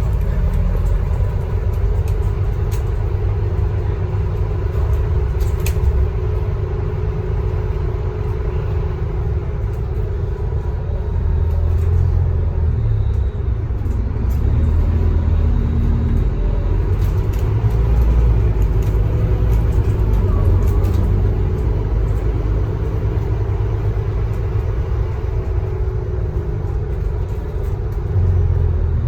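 Scania K310UB bus's diesel engine running under way, with a steady low rumble of engine and road noise that swells and eases a little as the bus moves, and a few light rattles.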